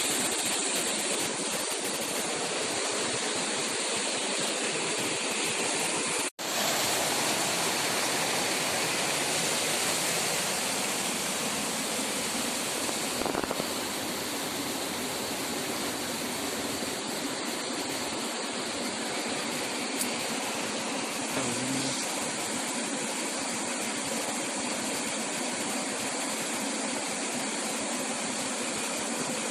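A steady rushing noise, broken by a split-second dropout about six seconds in.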